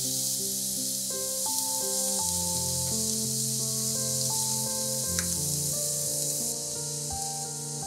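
Shredded cabbage and carrot sizzling as they fry in a stainless steel wok and are stirred with a spatula. Background music of calm held notes plays throughout. The sizzle gets noticeably quieter about six and a half seconds in.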